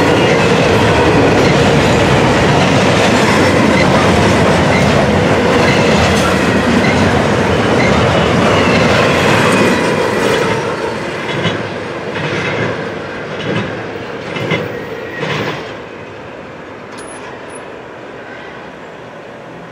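Double-stack intermodal container train rolling past close by: a loud steady rumble and clatter of freight car wheels on the rails, with a little wheel squeal. About ten seconds in, the last cars go by, leaving a few separate clacks of the final wheelsets. The sound then dies down to a fainter rumble as the train moves off.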